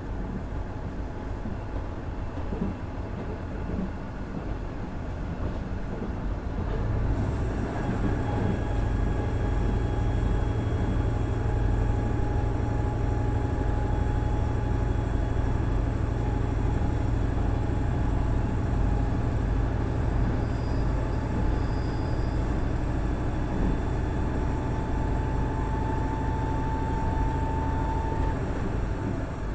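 Onboard running sound of a KiHa 110-200 diesel railcar, its Cummins DMF14HZA engine droning over the rumble of the wheels on the rails. About seven seconds in the engine note grows louder and holds steady with a high whine, easing off at the very end.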